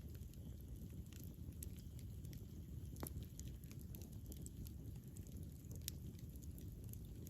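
Wood fire burning with a low, steady rumble and scattered sharp crackles and pops, a couple of them louder, about three and six seconds in.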